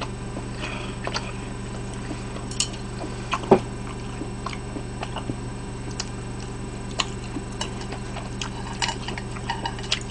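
Close-up chewing of a mouthful of pizza: scattered small wet mouth clicks and smacks, the sharpest about three and a half seconds in, over a steady low electrical hum.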